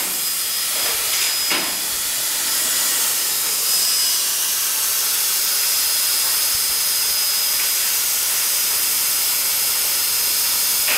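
CNC plasma cutting torch hissing steadily as it cuts, with a thin high whine running through the hiss. Two short sharp clicks near the start.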